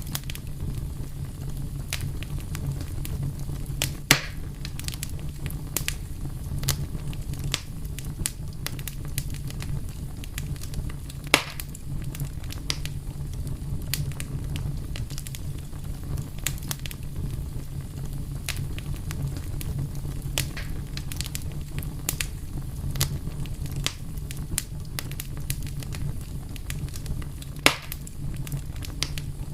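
Wood fire burning steadily with a low rumble and irregular crackles, the loudest pops about four, eleven and twenty-eight seconds in.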